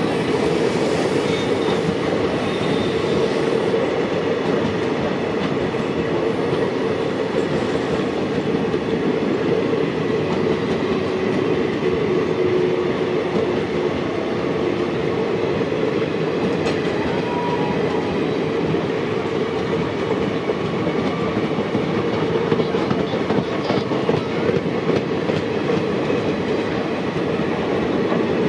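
Indian Railways express passenger coaches rolling past close by: a steady rumble of steel wheels on the rails, with a few faint squeals here and there.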